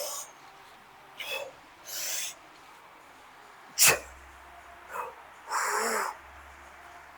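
A man breathing hard in short forceful exhales and grunts during a heavy set of Romanian deadlifts with 80 kg, a burst every second or two. One short sharp sound about four seconds in is the loudest.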